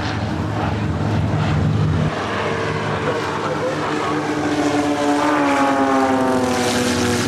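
A propeller airplane flies past. Its engine drone holds steady, then drops in pitch over the last couple of seconds as the plane passes and moves away.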